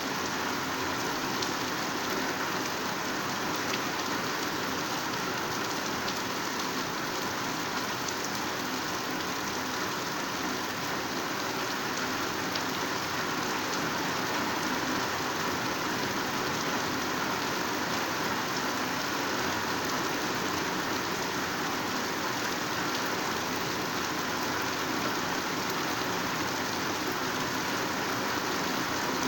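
Heavy rain pouring down steadily onto leaves and vegetation, a dense even hiss without a break.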